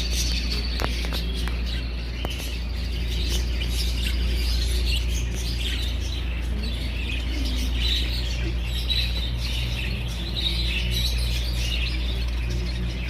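Many small caged birds chirping and twittering at once, a dense, continuous chatter, over a steady low hum.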